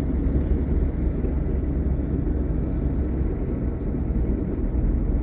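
Steady low rumble of a vehicle driving, heard from inside the cab: engine and road noise with no changes.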